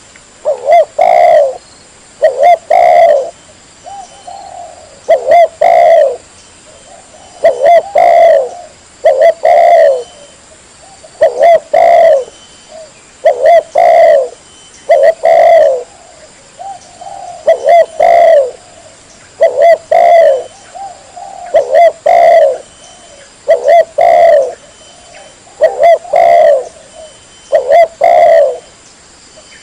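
Spotted dove (tekukur) cooing over and over: a loud pair of coos about every two seconds, with softer coos between.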